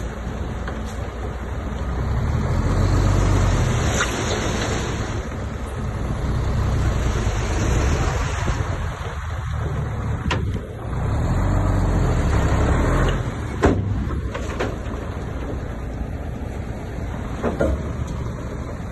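Bulldozer's diesel engine working under load, swelling and easing several times, with a few sharp knocks and clanks.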